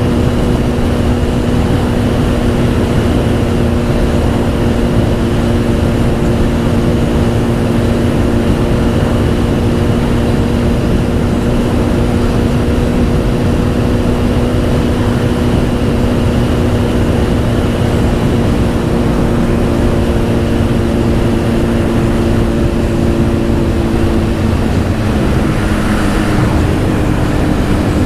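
Honda CBR1000 inline-four sportbike with a Two Brothers aftermarket exhaust, running at steady cruising revs under heavy wind rush on the helmet microphone. The engine note changes about 25 seconds in as the revs shift.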